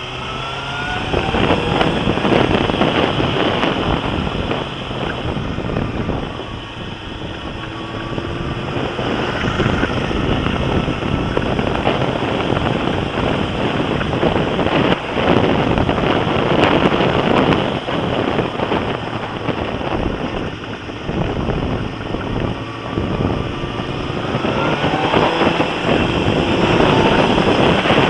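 Suzuki GSX-R sports bike engine revving up as it accelerates, its pitch climbing just after the start and again near the end. It sits under heavy wind rushing over the camera's microphone at riding speed.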